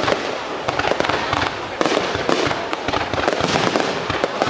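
Aerial fireworks bursting and crackling in a dense, unbroken barrage, many shells going off one over another.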